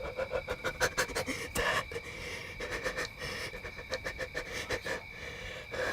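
A person panting hard in quick, heavy breaths, the rush slowing a little after about two seconds: a hunter's adrenaline breathing just after shooting a buck.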